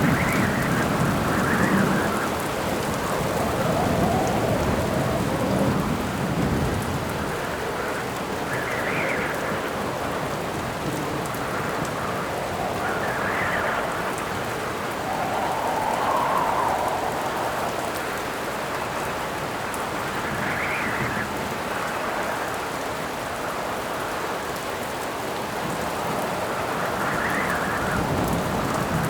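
Steady rain with wind howling in swells that rise and fall every few seconds. Low thunder rumbles through the first few seconds and again near the end.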